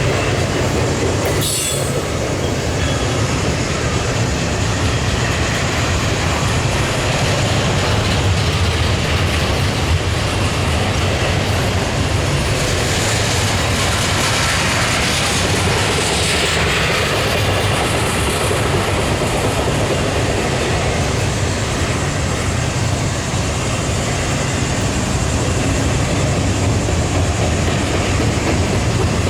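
Double-stack intermodal freight train rolling past, steady rumble and clatter of wagon wheels over the rails, with a brief higher-pitched wheel screech about halfway through.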